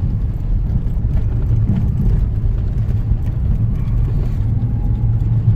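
Steady low rumble of a vehicle driving, its engine and tyres on the road heard from inside the cabin.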